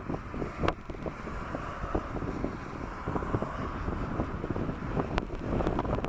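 Gusty storm wind buffeting the microphone with rumbling and crackling, over a steady rushing noise.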